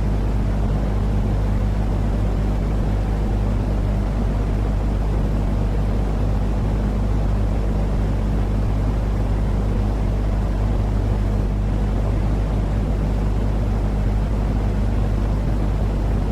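Baby-sleep white noise: a steady, deep hiss weighted to the low end, with a low, even hum beneath it and no change in level.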